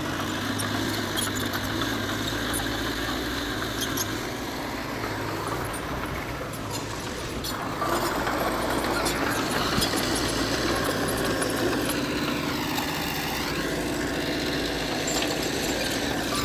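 Diesel engine of earthmoving machinery running steadily, getting louder about eight seconds in. A whine dips and rises in pitch about twelve seconds in.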